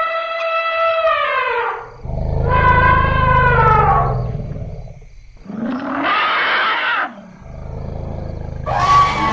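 Elephants trumpeting: about four loud, drawn-out calls in a row, several over a deep rumble, one about six seconds in harsher and rougher than the rest.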